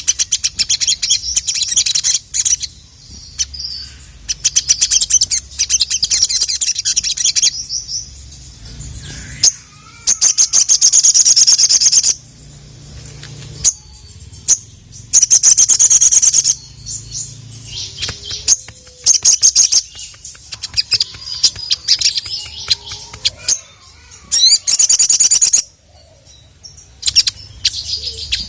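A crimson sunbird (sogok ontong) singing in repeated high-pitched bursts of rapid chirps and trills, some held for about two seconds.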